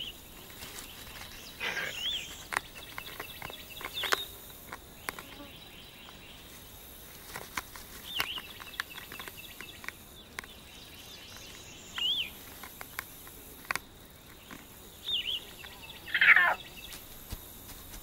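A bird repeats a short rising-and-falling chirp every few seconds over a faint high hiss, with scattered light clicks and one louder, fuller call near the end.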